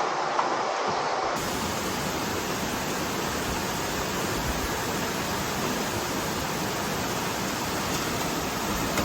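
A steady rushing noise with no clear pitch or rhythm, changing abruptly about a second and a half in.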